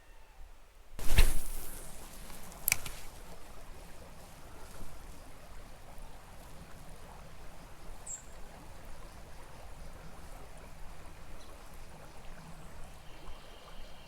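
Small creek's water running steadily, after a loud thump about a second in and a sharp click shortly after.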